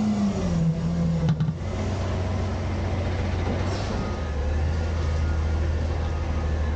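Autocar garbage truck's diesel engine running steadily. A falling whine and a brief clatter come in the first second and a half, and the engine note grows fuller and steadier about four seconds in.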